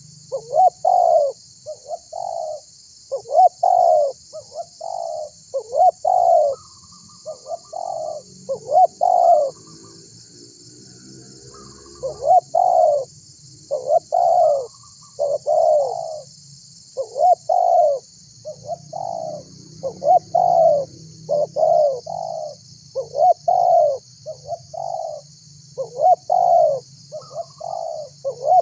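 Spotted dove (tekukur) cooing over and over in its song phrases of short, low coo notes, with a pause of about two seconds roughly a third of the way in. A steady faint high hiss runs underneath.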